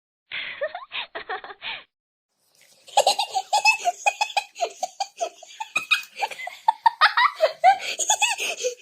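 Girls laughing, in two separate clips: a short burst of laughter with a duller, muffled sound for about a second and a half, then after a pause a longer stretch of high-pitched, fitful giggling laughter.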